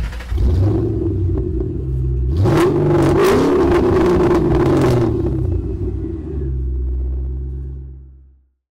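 A car engine rumbling, revving up about two seconds in, then settling back to a steady low rumble that fades out near the end.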